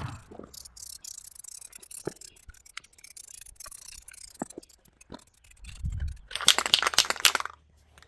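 Aerosol spray-paint cans in use on aluminum wheels: a faint hiss with scattered clicks in the first few seconds, then a low thud and a loud rattling burst of about a second, some six and a half seconds in.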